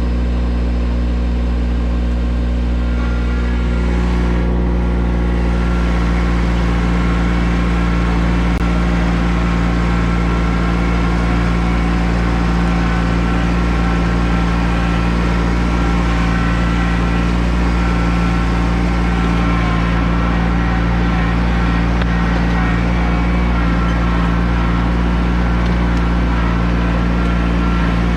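Tractor engine running steadily close by under way, with an even drone. Its note lifts a little about four seconds in, then holds.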